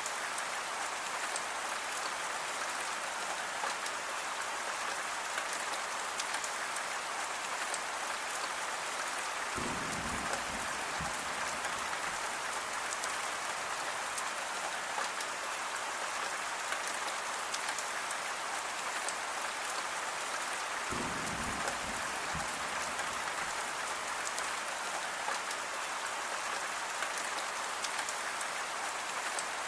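Steady rain falling, an even hiss with a scatter of sharp drop ticks. A low rumble comes in twice, about ten and about twenty-one seconds in.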